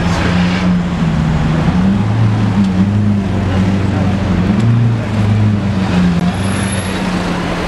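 Lamborghini Aventador's V12 engine idling steadily, fitted with a Novitec kit, heard amid street traffic and crowd chatter.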